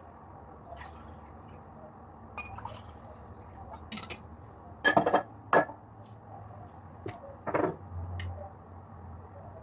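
Dishes being handled in a kitchen: scattered light clinks and knocks, the loudest two close together about five seconds in and another about two and a half seconds later.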